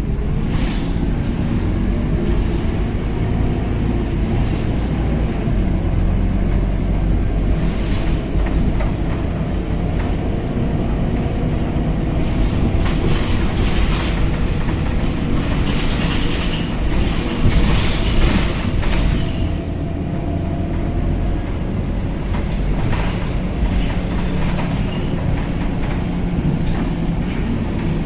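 Ride noise inside a moving Scania K270UB city bus: a steady low engine and road rumble, with clicks and clatters from the bodywork and fittings that come thickest in the middle.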